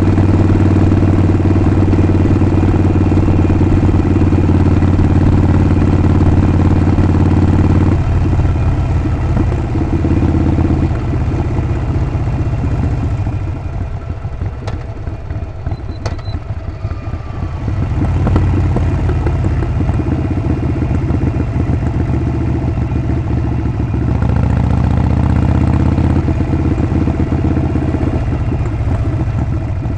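Harley-Davidson Sportster 48's air-cooled 1200 cc V-twin and exhaust running while riding. It pulls steadily at first, drops back around the middle, then builds again with a rising pitch about two-thirds of the way in before easing near the end.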